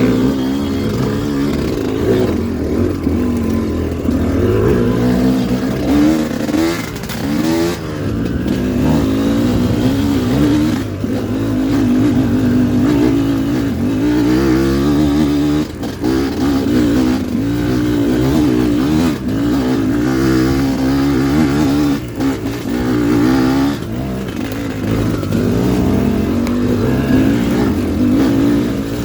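Dirt bike engine running hard, its pitch rising and falling over and over as the throttle opens and closes.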